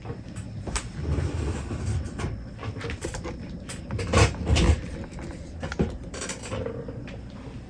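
Irregular clicks, knocks and scrapes of hands working on a microwave's fuse holder and metal panel, with the loudest knocks about halfway through.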